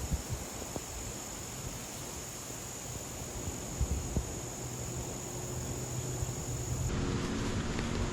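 Steady outdoor ambient hiss, a breeze with a low rumble underneath and a few faint clicks; the background changes abruptly about seven seconds in, with a low hum joining it.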